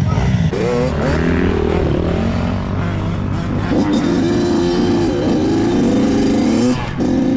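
Dirt bike engines running and revving, their pitch rising and falling repeatedly.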